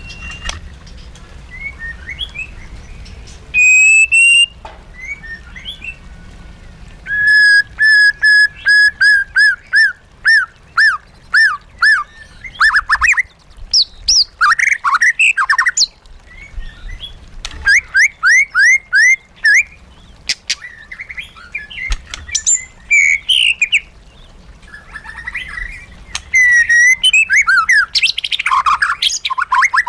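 White-rumped shama singing: loud phrases of clear whistles and quick runs of repeated sweeping notes, broken by short pauses.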